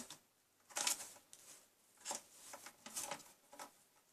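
Packing contents being handled: a few short rustles and scrapes, spaced roughly a second apart.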